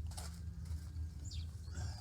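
Quiet outdoor ambience: a steady low hum with a few faint, short bird chirps.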